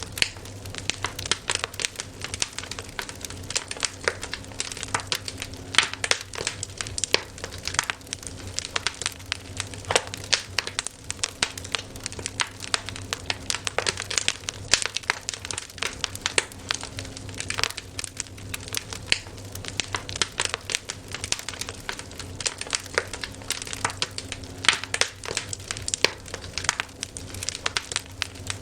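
Campfire crackling, with dense, irregular pops and snaps of varying loudness over a steady low hum.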